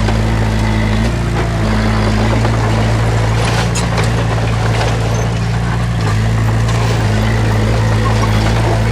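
Heavy diesel engine of earthmoving machinery running steadily, its note shifting slightly with load, with a few metallic clanks about three and a half seconds in.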